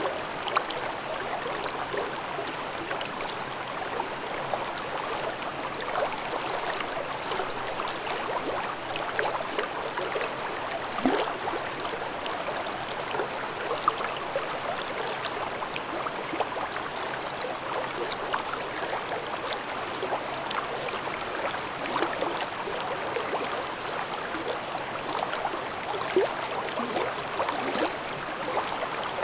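Mountain stream babbling over rocks in a gorge: a steady rush of water with frequent small splashes and gurgles.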